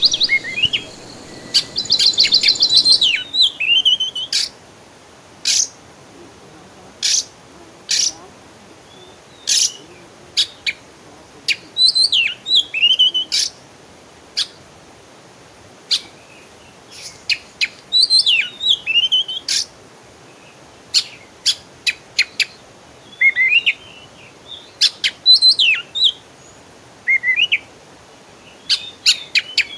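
Songbirds chirping and singing: a rapid high trill for the first three seconds or so, then scattered sharp chips and short warbled phrases that sweep downward, with pauses between them.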